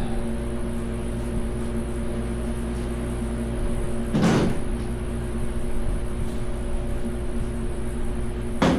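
Steady mechanical hum with two brief clunks of parts being handled, about four and a half seconds apart.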